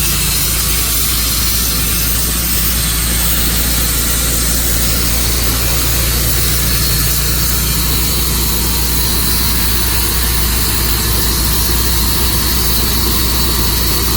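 Tru-Cut sawmill running steadily while sawing through a juniper log, its engine giving a constant drone.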